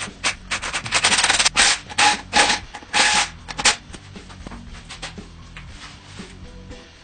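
A string of loud, rapid, rattling bursts in the first four seconds, each lasting about a quarter to half a second, like a power tool being pulsed, over quiet background music.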